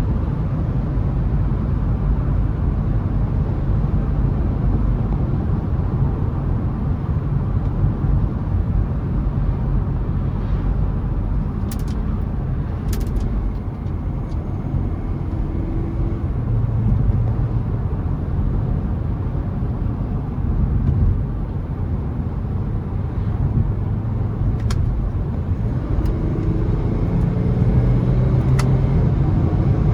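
Audi A5 50 TDI's V6 diesel engine running with tyre and road noise while the car drives along a winding road. The engine note climbs near the end as the car accelerates. A few short clicks stand out now and then.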